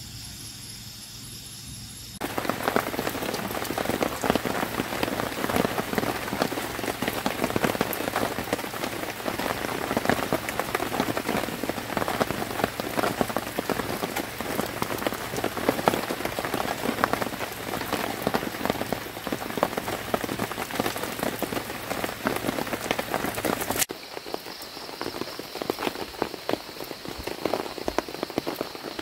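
Heavy rain falling on a camping tarp overhead, a dense, steady downpour full of individual drop hits that starts suddenly about two seconds in. Near the end it cuts to a lighter drizzle.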